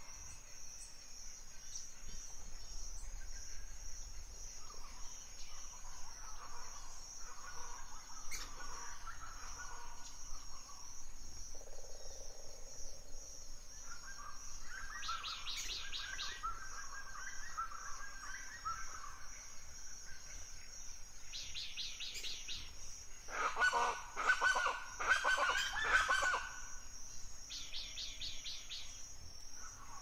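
Forest birds: a bird repeating a short high trill every few seconds, and a louder run of harsh, rasping calls for a few seconds past the middle, over a steady high-pitched hiss.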